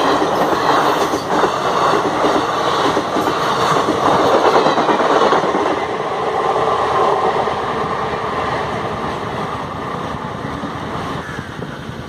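LHB passenger coaches passing close by: steady rumble and rattle of wheels running over the rails, getting gradually quieter over the second half.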